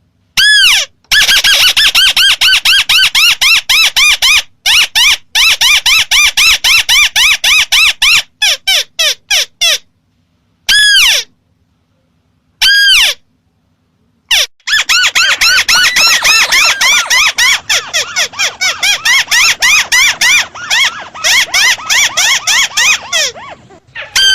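Lure recording of a crake (burung tikusan) calling: a fast run of high, arching notes repeated many times a second, in several bursts cut off abruptly by complete silences, as in an edited, looped call track.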